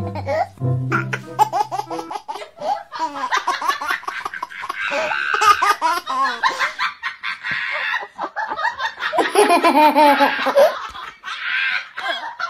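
A person laughing hard in long, repeated runs of high, wavering laughter. Steady low music notes sound in the first two seconds.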